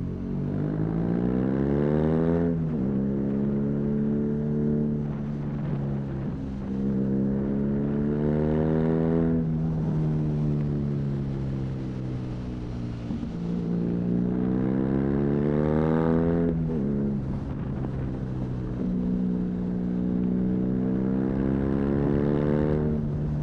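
BMW R nineT's 1170 cc air/oil-cooled boxer twin through an Arrow high-mounted exhaust, pulling through the gears. The revs climb and drop sharply at upshifts about two and a half seconds in and again about seventeen seconds in, with a slow fall in the middle as the throttle eases, over a low rush of wind.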